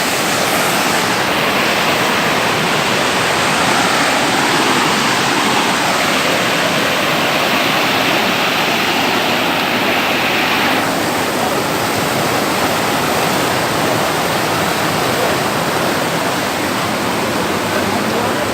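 Steady, loud rush of running water, a continuous roar with no breaks.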